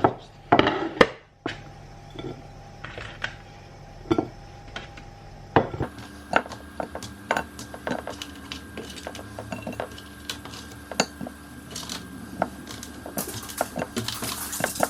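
Dishes and cutlery clinking and clattering: many short, sharp knocks and chinks, coming thicker from about six seconds in.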